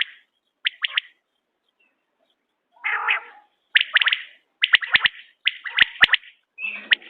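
Quail calling: a sharp three-note call repeated over and over with short pauses, plus one rougher, noisier call about three seconds in. A few sharp clicks fall in the middle.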